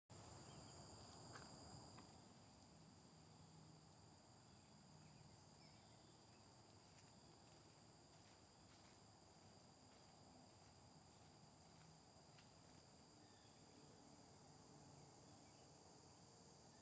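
Faint, steady high-pitched insect chorus, with a few faint ticks.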